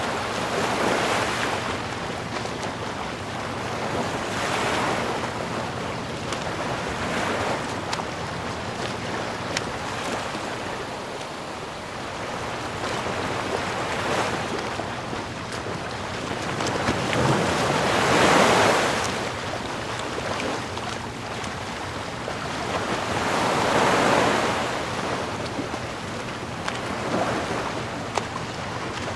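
Sea waves washing ashore in a steady rush, each wave swelling and falling back every few seconds, the strongest about two-thirds of the way through.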